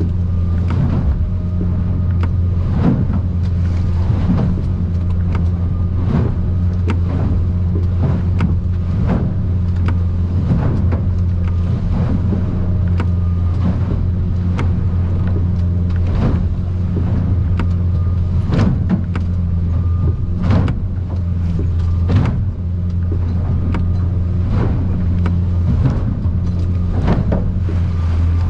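Outboard engine of a Stabicraft 2050 Supercab aluminium boat drones steadily under way. Frequent irregular thuds and splashes, every second or two, come as the hull pounds through rough water and spray.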